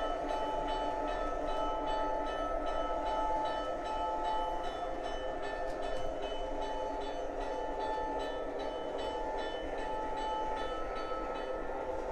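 O gauge model train running on its track: a steady electric motor hum with a few held whining tones, and a quick, regular clicking of the wheels over the rail joints.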